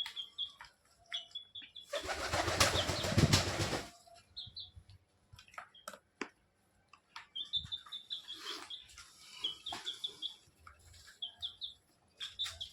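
A green parrot flapping its wings as it bathes in a water dish: a loud burst of wing-beating and splashing about two seconds in, lasting about two seconds. Short high chirps from small birds come and go throughout.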